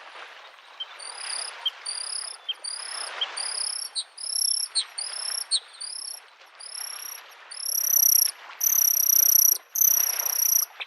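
Bluethroat singing a long run of repeated high whistled notes, each curving up, coming about one and a half to two a second and growing longer and louder toward the end. Lake waves wash against the shore underneath, swelling and fading.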